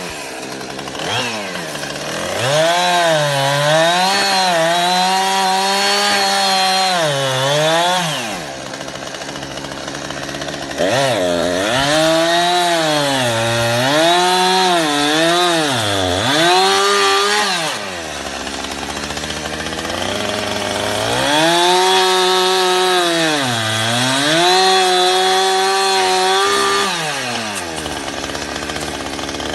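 Chainsaw running at high revs in three long spells, its pitch sagging and recovering again and again as it works. It drops back to a low idle twice, about 8 and 18 seconds in.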